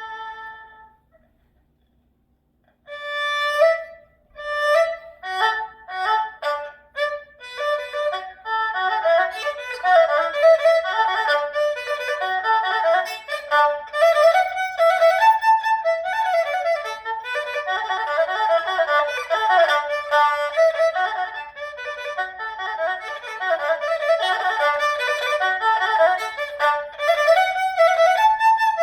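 Erhu playing: a held note dies away about a second in, and after a short pause separate notes start up and quicken into fast, ornamented runs and trills.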